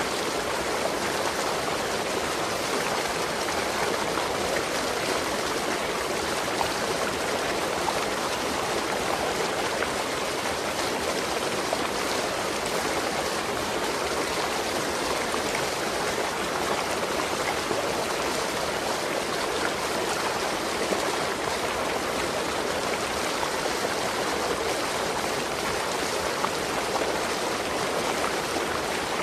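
Waterfall: water falling and rushing over rocks in a steady, unbroken roar.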